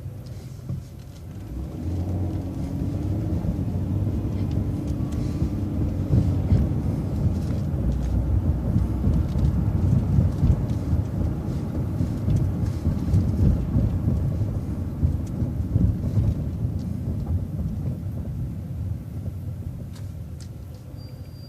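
Transit bus engine and drivetrain heard from inside the bus, quieter at first, then revving up about two seconds in with a rising whine as the bus pulls away and gathers speed. It runs loud under way and eases off near the end.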